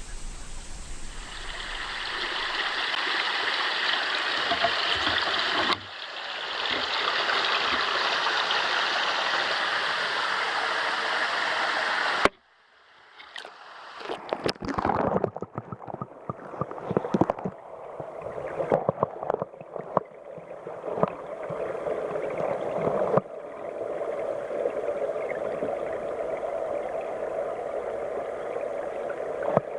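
Mountain headwater stream rushing steadily as a bright, hissy flow. About twelve seconds in it cuts off abruptly and gives way to muffled, lower-pitched gurgling and bubbling that settles into a steady dull rush.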